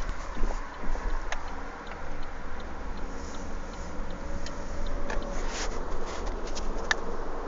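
Car being driven, with a steady low rumble from the engine and road and a scattering of irregular sharp clicks and knocks.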